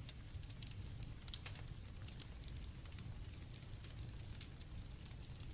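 Campfire crackling softly with irregular small pops over a low rushing hiss, and crickets chirping faintly in a steady high trill.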